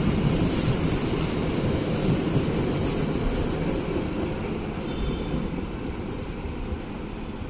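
Train rolling along the rails, its wheels making a dense low rumble with a few brief high screeches in the first three seconds; the rumble slowly fades as the train moves away.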